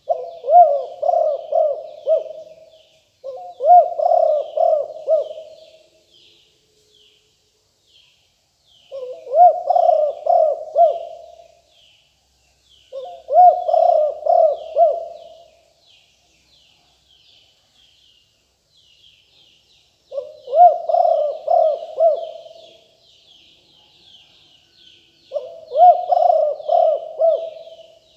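Spotted dove cooing: six phrases of repeated coos, each a couple of seconds long, coming roughly in pairs. Faint high chirping of small birds runs underneath.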